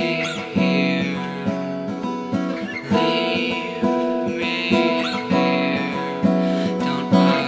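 Acoustic guitar playing an instrumental passage of an indie folk song, with chords picked about once a second and left to ring.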